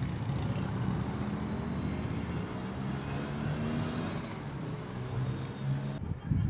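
Road traffic: a vehicle engine's low hum, slowly changing in pitch, over a steady hiss, breaking off abruptly about six seconds in.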